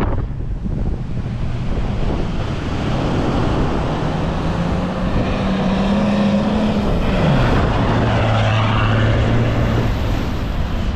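A four-wheel drive's engine driving along a beach, with wind buffeting the microphone. The engine note climbs for a few seconds, then drops suddenly about two-thirds of the way through and holds lower, as the driver eases off or changes gear.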